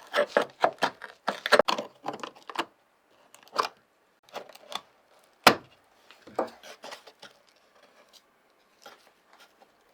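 Hand work on the ice box's parts: a quick run of short scrapes and clicks, then scattered clicks and one sharp knock about five and a half seconds in.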